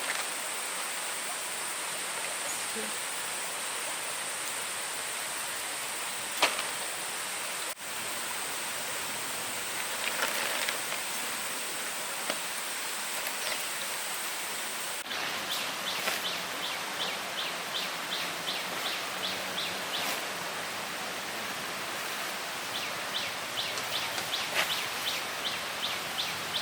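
Forest ambience: a steady hiss with a high, even drone that cuts off suddenly about halfway through. After that, rapid high chirps repeat several times a second, with an occasional click.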